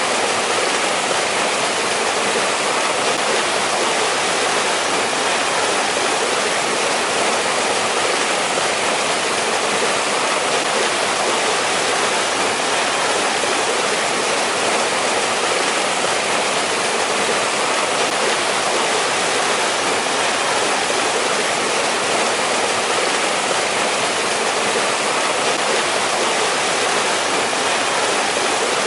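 Mountain stream water rushing and splashing steadily over rocks, a dense even hiss with no breaks.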